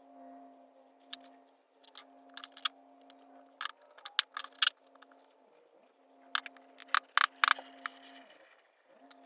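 Irregular sharp clicks and taps, like small workpieces being handled and set down, over a steady hum in a workshop. The clicks come in clusters, the loudest a quick run about seven seconds in.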